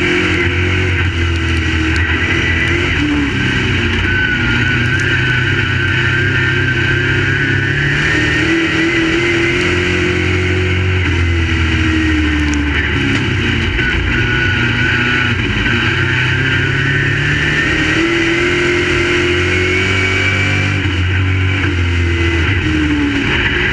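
Crate late model race cars' V8 engines running at racing speed. The engine note climbs for several seconds and then drops, about three times over.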